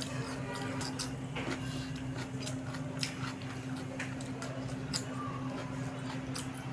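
Close-up eating sounds of spicy egg curry with rice: wet chewing and frequent short mouth clicks, over a steady low electrical hum.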